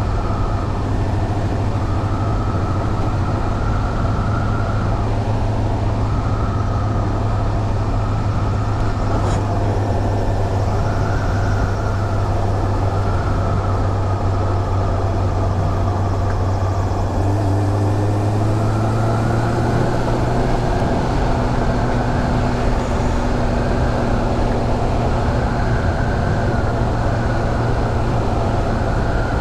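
Onboard sound of a Honda CB400 Super Bol d'Or's inline-four engine pulling at a steady cruising speed, under wind and road rush. About two-thirds of the way through, the engine note rises a little.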